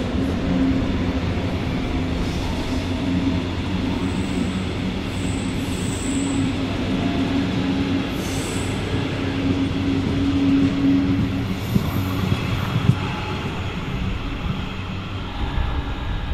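A red S-Bahn electric multiple unit pulls out past the platform. Its traction motors hum steadily over the rolling of the wheels on the rails, with brief high wheel squeals a few seconds in and again about halfway through.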